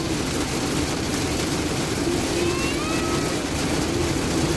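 Heavy rain falling on a car's roof and windows, heard from inside the car, over a steady engine hum. A bus goes past near the end.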